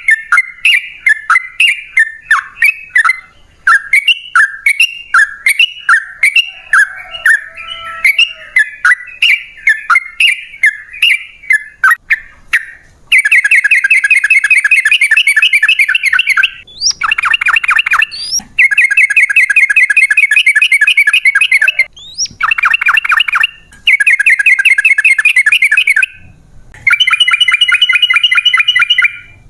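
Yellow-vented bulbul (trucukan) calling: repeated short chirping notes, a few a second, for the first twelve seconds or so, then long rapid rolling trills in bouts of two to three seconds with brief breaks between them.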